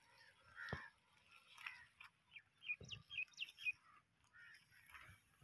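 Faint birdsong: a quick run of short, rising chirps in the middle, with a few hoarser calls around them and a soft knock near the start.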